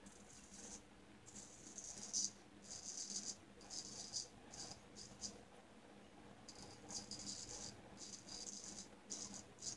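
Shavette razor with a Gillette Wilkinson Sword blade scraping through stubble in short, quick strokes, about a dozen, with a brief pause about halfway through.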